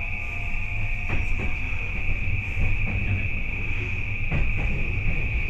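Cabin running noise of an E235 series electric train under way: a steady low rumble with a steady high-pitched whine, and sharp clicks of wheels over rail joints, a close pair about four and a half seconds in.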